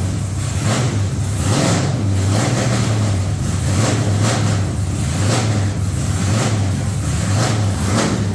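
A methanol-fuelled LS V8 in a truck running loudly on its first start, a steady low drone with uneven surges about once a second. It is running rich: it is burning a little extra methanol.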